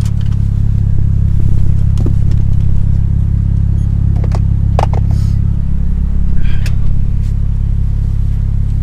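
A car engine running with a steady low rumble, with a few light clicks and knocks over it.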